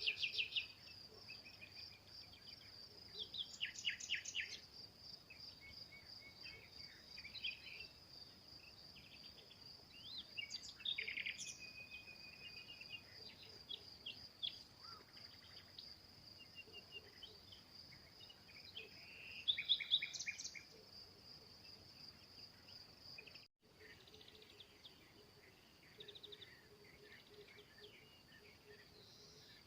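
Small songbirds singing short, separate phrases (at the start, and about 4, 11 and 20 seconds in) over a continuous high, pulsing insect trill. The audio drops out briefly about two-thirds of the way through.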